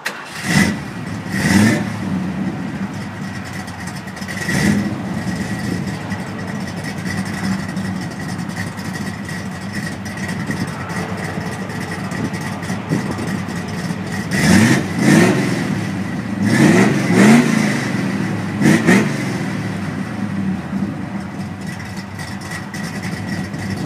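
Ford Galaxie's V8 idling, heard from behind at the exhaust, with short throttle blips: two near the start, one a few seconds later, and a run of about five in the second half.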